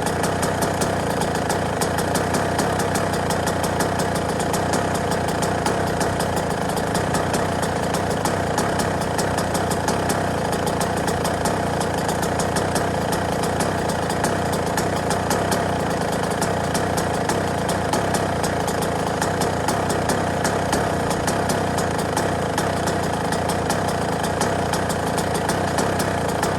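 Yamaha YZ125 two-stroke dirt bike engine idling steadily, with a rapid, even popping and no revving.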